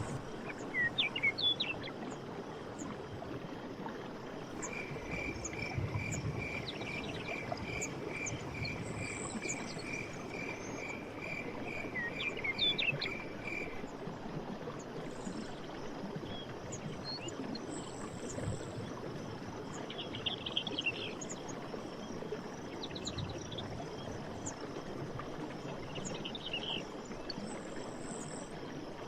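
Running stream water as a steady wash, with forest birds calling over it. One bird repeats a single note about two to three times a second for roughly nine seconds in the first half. Scattered chirps and short high buzzes come and go throughout.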